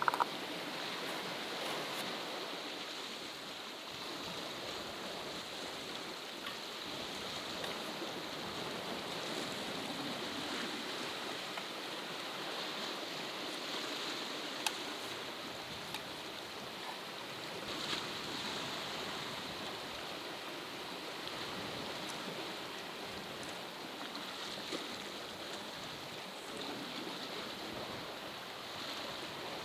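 Steady rush of sea water washing over rocks on the shore, with a few small clicks.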